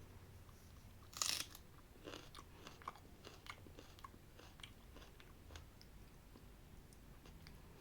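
A person eating chicken biryani with curry, faint: a louder bite about a second in, then a run of short, soft chewing clicks.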